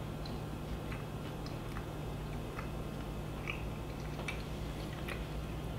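A man chewing a mouthful of microwaved frozen pizza with his mouth closed: soft, irregular little clicks and smacks of chewing over a steady low hum.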